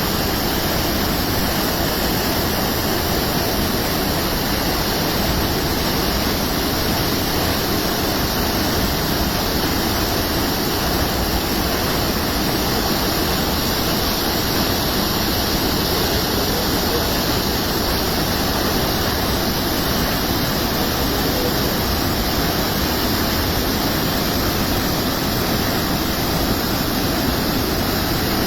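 Steady rush of water in heavy rainfall, an even, unbroken noise.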